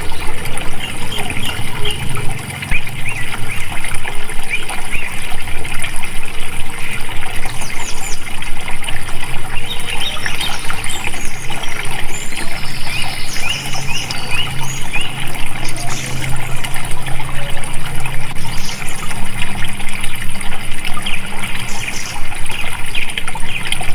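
Water flowing and trickling steadily, with many short bird chirps over it.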